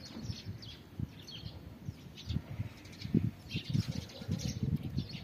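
Small birds chirping intermittently in the background, with a scatter of low, muffled bumps.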